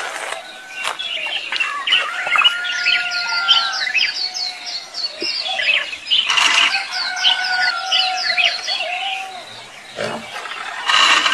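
Birds calling: many quick, repeated descending chirps over longer held calls, with a couple of short noisy bursts about halfway through and near the end.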